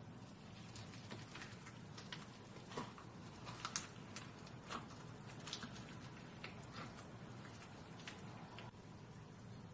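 Slime being squeezed and stretched by hand: faint, irregular sticky clicks and small pops over a low hum.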